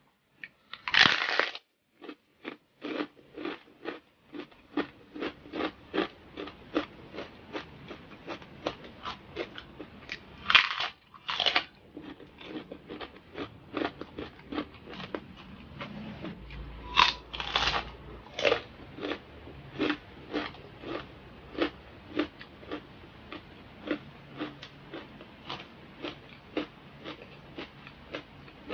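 A person biting into crispy fried pork (pork knuckle skin or chicharon) and chewing it. A loud crunch comes about a second in, then crisp crunches about twice a second, with louder bites around the middle.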